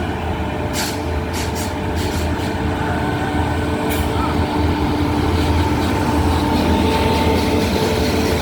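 WAP7 three-phase electric locomotive pulling an express train away, its motors and blowers giving steady humming tones over a low rumble. There are a few sharp clicks in the first seconds, and the sound grows slowly louder.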